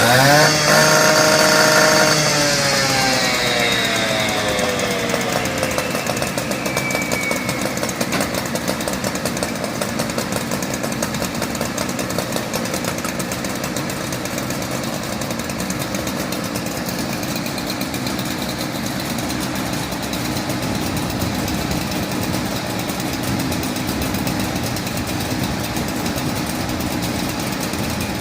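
A small engine on a piece of rescue equipment running at high speed, then dropping in pitch over a few seconds as it is throttled back, and settling into a steady, fast-pulsing idle.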